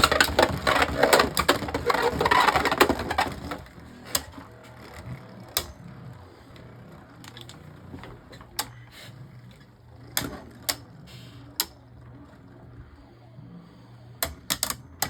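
Two Beyblade Burst spinning tops battling in a plastic stadium: a loud, dense grinding and scraping for the first three seconds or so after launch, then a quieter rattling spin broken by sharp clacks of collisions every second or two.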